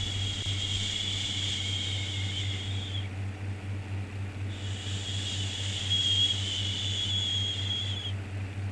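Long, drawn-out 'shhh' shushing sounds for soothing a baby, each lasting about three and a half seconds with a pause of about a second and a half between them, two in a row. Under them runs a steady low hum.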